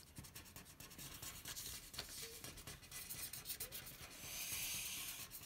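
Felt-tip markers colouring on paper in many quick scribbling strokes, with one longer, louder stroke about four seconds in.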